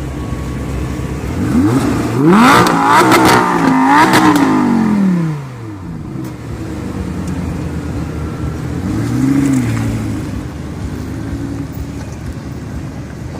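Audi R8's V10 engine idling, then revved hard about a second and a half in, held high with a couple of blips for about three seconds, and falling back to idle. A second, shorter rev comes about nine seconds in.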